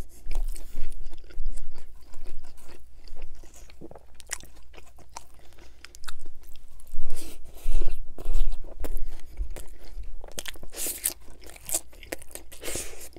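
Close-miked chewing and crunching of ripple potato chips and a Subway sub sandwich: a stream of crisp crunches that softens for a couple of seconds in the middle, then comes back in louder bursts.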